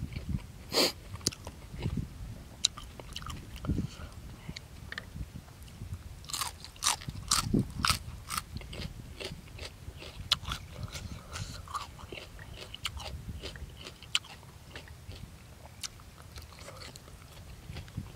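Close-up eating sounds of a man chewing boiled buffalo offal and raw vegetables: a steady wet chewing under sharp, crisp crunches, which come thickest about six to eight seconds in.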